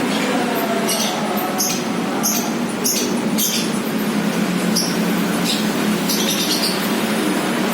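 Lovebird giving short, high-pitched chirps, roughly one or two a second, over a steady background noise; the chirps stop about six and a half seconds in.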